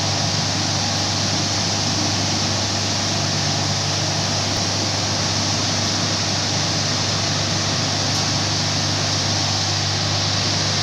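A motor-driven machine running steadily with a constant hum under a loud, even hiss.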